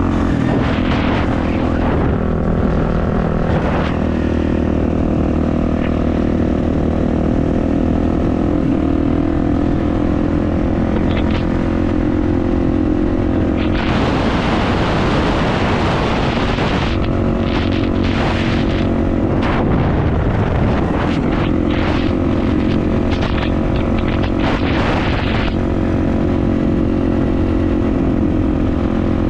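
Kawasaki motocross bike engine running while riding, its pitch shifting now and then with the throttle. About halfway through, a loud rushing noise covers it for a few seconds, with shorter bursts after.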